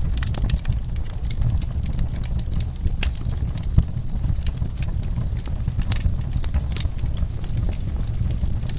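Fireplace fire crackling: many small sharp pops over a steady low rumble, with one louder pop about four seconds in.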